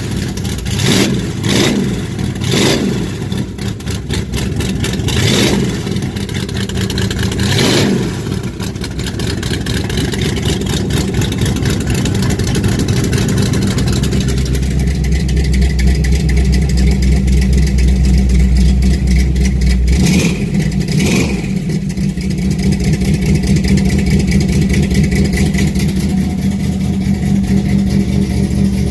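1968 Dodge Charger R/T's big-block V8 running after a cold start. The throttle is blipped about five times in the first eight seconds, then the engine settles to a steady, deeper idle, with two more quick blips about twenty seconds in.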